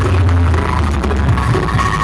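Loud electronic dance music with a heavy, booming bass line, played through a miniature 'sound horeg' speaker rig.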